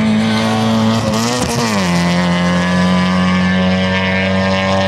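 Rally car engine running hard on a gravel stage, holding a high, steady note, then a quick rise and drop in pitch about a second and a half in before it settles on a lower steady note.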